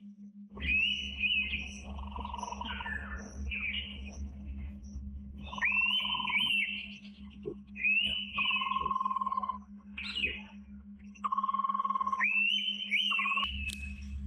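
Birds calling in four phrases of quick rising whistles, each followed by a lower, steady wavering note held for about half a second, over a constant low electrical hum.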